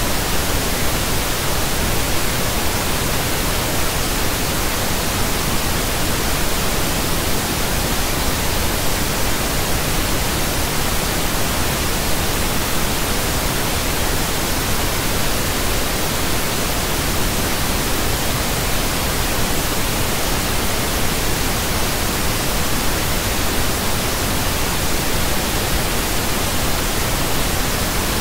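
Pink noise: a steady, unchanging hiss spread evenly across the whole range, fuller in the low end than white noise.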